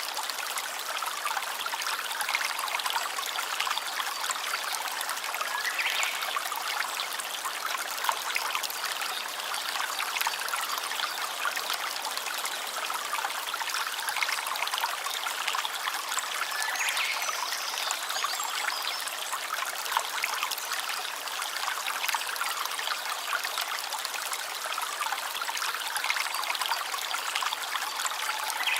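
Small stream trickling and splashing steadily over stones, a constant bright rush of running water.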